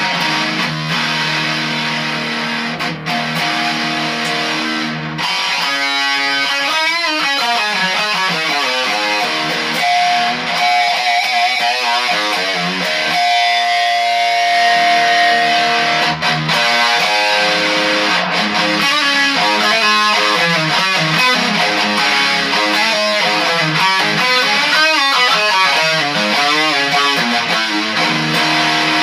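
Electric guitar played through a Danelectro FAB Metal (D-3) distortion pedal with the gain turned up and the tone set toward bass: heavily distorted chords and riffs, with held notes and bent, wavering notes.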